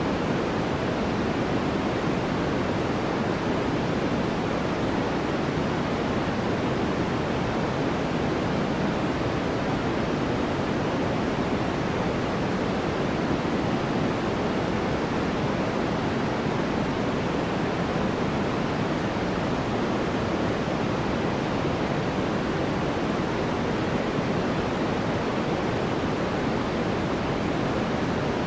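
Steady, unchanging sleep noise: an even rushing hiss, heavier in the low-mids than in the treble, with no breaks or changes.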